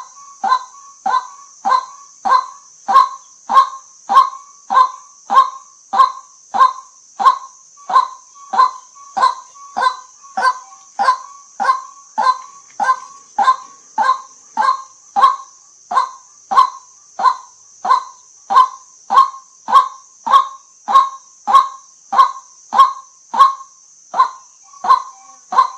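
White-breasted waterhen calling a long, even run of short honking 'kwak' notes, about three every two seconds, with a faint steady high hiss underneath.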